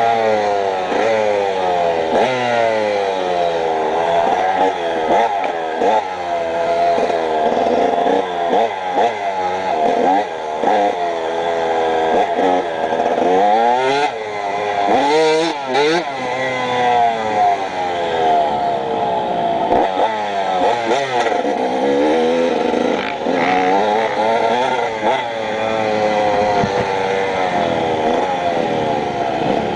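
Dirt bike engine being ridden hard, its pitch rising and falling over and over as the throttle opens and closes, with a couple of sharp knocks about halfway through.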